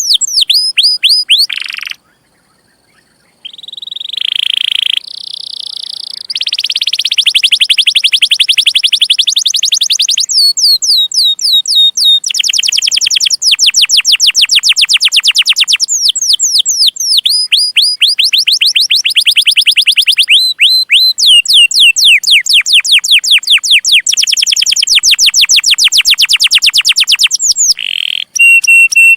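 Domestic canary singing: long rolls of rapid, evenly repeated high chirps, each note sweeping downward, in phrases that change pitch and speed. There is a short pause about two seconds in.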